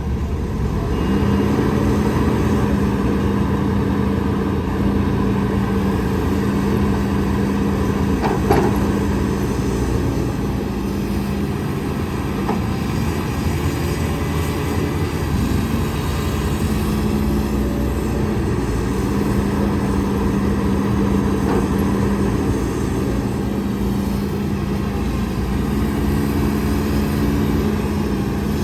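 Diesel engine of heavy earthmoving machinery running steadily with a low hum, with a single sharp knock about eight and a half seconds in.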